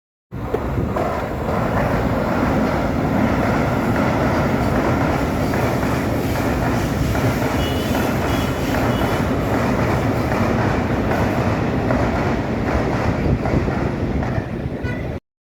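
Train running past on the rails: a steady, loud rumble of wheels on track, with a faint high wheel squeal about eight seconds in and again just before the end. It starts and cuts off abruptly.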